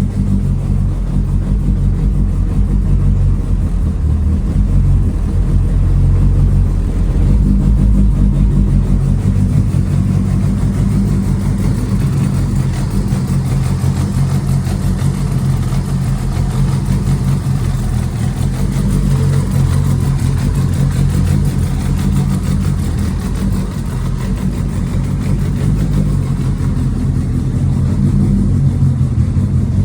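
Turbocharged 1.5-litre Ford Zetec Sigma four-cylinder with big cams running on its first start-up, a steady engine note with slight swells and a brief dip a little after halfway.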